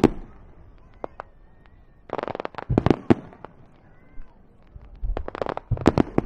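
Aerial fireworks shells bursting in quick clusters of sharp bangs: one loud bang at the start, then two rapid volleys about three seconds apart.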